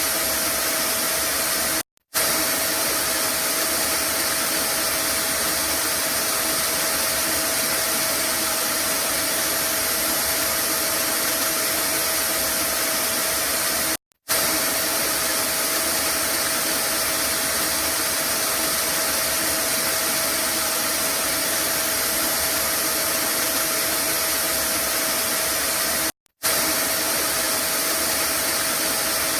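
Vacuum cleaner running steadily: an even hiss with a faint steady whine. It cuts out for a split second three times, about every twelve seconds, where the recording loops.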